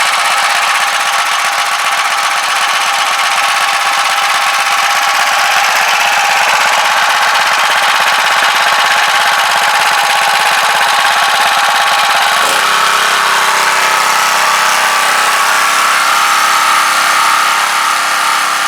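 Small pull-start petrol engine of a Clarke pressure washer running steadily on its own, with no pump fitted, warming up after a cold start. Its sound changes about twelve seconds in, when a steadier, more even note sets in.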